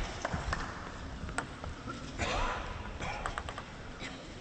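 Quiet arena background with a few light, irregularly spaced clicks and taps and a brief swell of faint crowd murmur a little after two seconds in.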